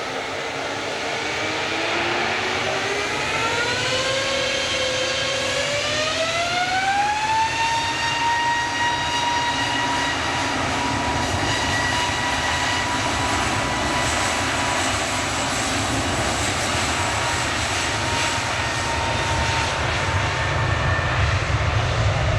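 Airliner engines spooling up: a whine with several overtones rises in pitch over about seven seconds, then holds steady over a broad rumble that grows louder near the end.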